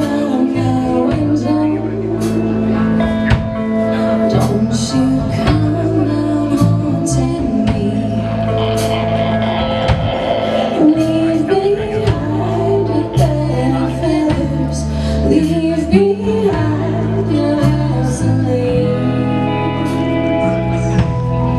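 Live band playing a song: drums, bass, guitars, keys and violin, with sung vocals over a steady beat.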